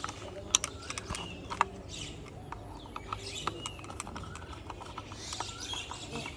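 Small screws being driven by hand into a plastic toy car's chassis: irregular sharp clicks and light scraping of the screwdriver and parts. Birds chirp in the background.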